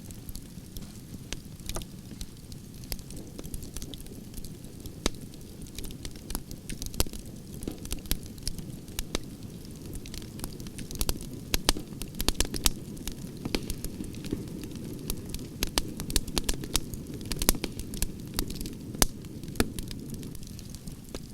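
Wood campfire burning logs: a steady low rush of flame with frequent sharp crackles and pops, which come thicker in the second half.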